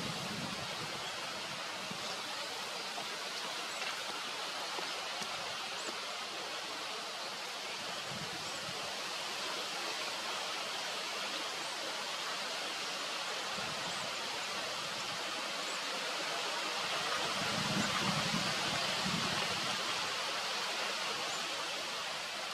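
Steady rushing outdoor background noise, with faint short high chirps every couple of seconds.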